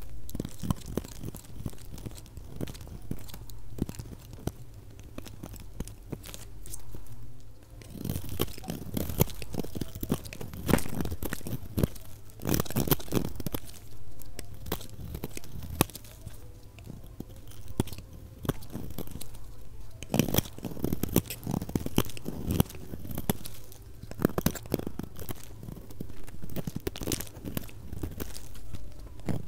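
A knife cutting through dry bar soap, sped up to double speed. It makes a dense run of crisp crunches and cracks that come in louder bouts, with lighter scraping between them.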